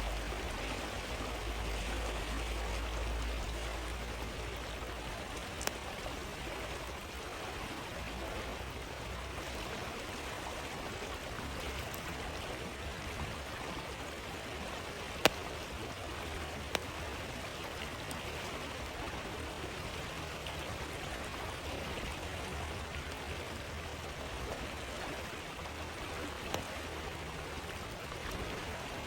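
A flowing stream runs steadily, with a campfire giving a few sharp crackling pops over it; the loudest pop comes about halfway through.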